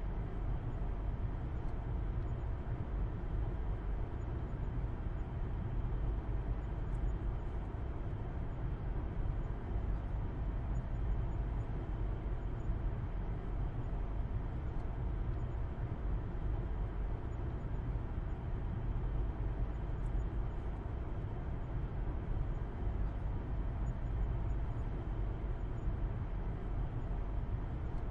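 Car driving at a steady speed, heard as from inside the cabin: a low, even rumble of engine and road with tyre noise over it, unchanging throughout.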